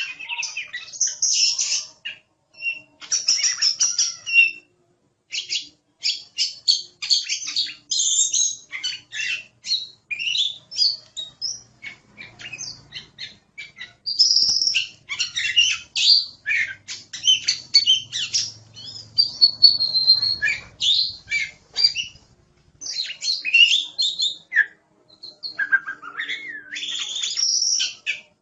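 Oriental magpie-robin (kacer) singing in full, vigorous song: rapid, varied high-pitched phrases of whistles, chirps and trills, with a couple of short pauses.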